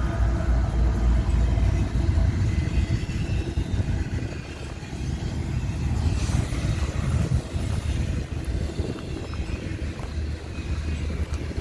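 Union Pacific train rolling past: a steady low rumble, with a few faint sharp clicks in the second half.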